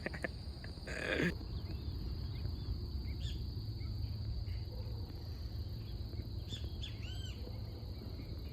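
Steady high-pitched trill of crickets over a low rumble, with a few short bird chirps about three seconds in and again near seven seconds.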